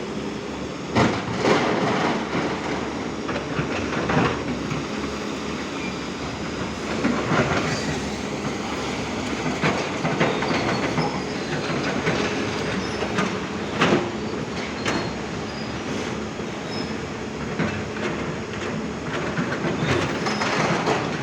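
Heavy machinery working at a mine: a steady mechanical din with irregular sharp metallic clanks and knocks.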